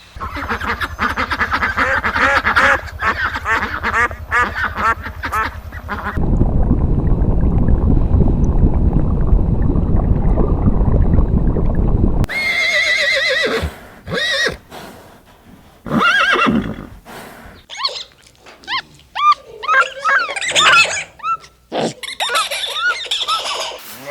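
Farm animals calling, including a horse whinnying. A stretch of rapid clattering comes first, then a steady low rumbling noise for about six seconds, then a series of separate calls that rise and fall in pitch.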